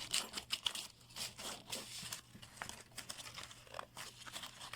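Crocheted yarn being pulled out and unravelled, stitch by stitch: a fairly faint run of small, irregular crackles and rustles.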